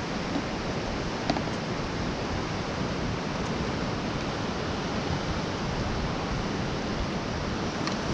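Steady wash of ocean surf on the beach, with a few faint ticks.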